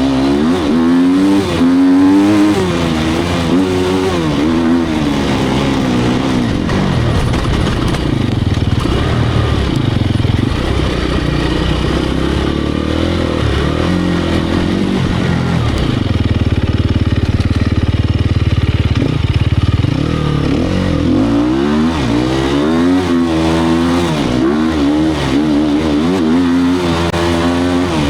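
Sherco 250 SEF Factory's single-cylinder four-stroke engine revving up and down in repeated rises and drops. About two-thirds of the way through there is a steadier, lower-revving stretch before the rises start again.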